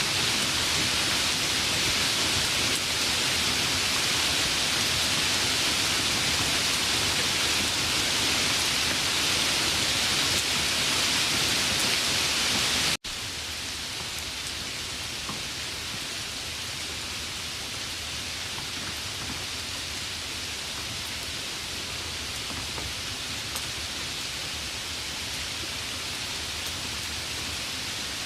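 Steady rain, loud and hissy. About halfway through it cuts out for an instant and comes back quieter and duller.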